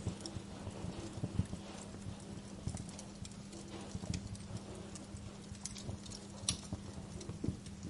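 Wood fire crackling, with irregular sharp pops and soft low thuds; one pop stands out about six and a half seconds in.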